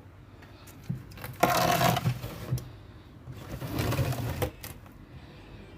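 Handling noises from an egg incubator's door being fitted: two longer scraping rubs with a few sharp clicks and knocks.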